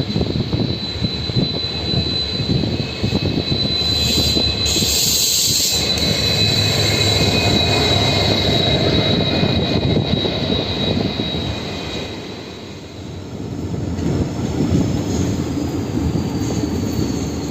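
Amaravati Express passenger train running on the rails, a steady rumble with a thin high-pitched whine over it. Its loudness dips briefly a little past the middle.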